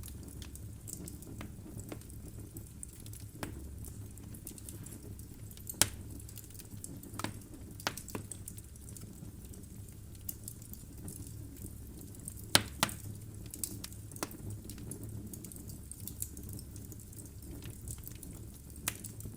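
Wood fire burning in a fireplace: a steady low rumble of flames with sparse sharp crackles and pops from the logs, the loudest pops about six seconds in and twice close together past the middle.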